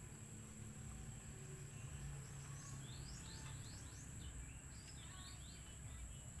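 Quiet rural background: a small bird gives a quick run of chirps in the middle, over a steady high-pitched insect drone.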